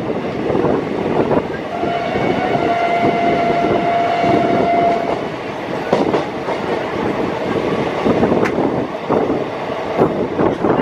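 Passenger train rolling past, its wheels rumbling on the rails, with a train horn sounding one long steady note for about three and a half seconds near the start. A few sharp wheel clicks over rail joints follow later.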